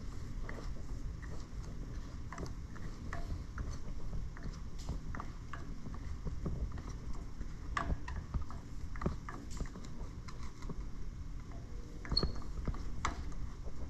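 Irregular small clicks and taps of hand-tool work on the plastic steering wheel of a garden tractor, as flathead screws are worked out with a screwdriver, over a low steady rumble.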